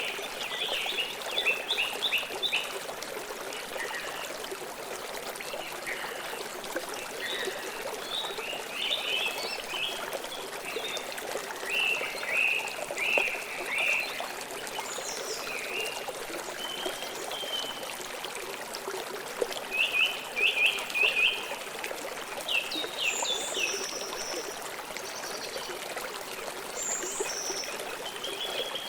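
River water flowing steadily, with songbirds chirping over it in recurring clusters of quick, short notes.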